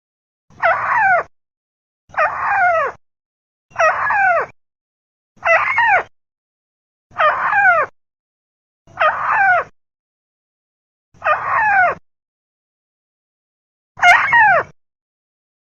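Tikusan rail calls played as a bird-trapping lure: eight short calls, each sliding downward in pitch, repeated every second and a half or so, with a longer pause before the last.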